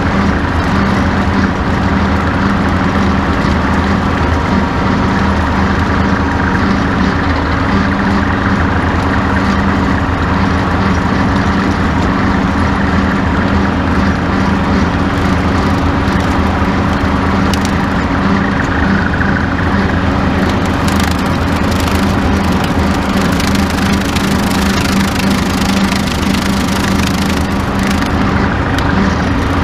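Farm tractor engine running steadily while pulling a bush hog rotary cutter through tall grass, a constant even drone with no change in speed.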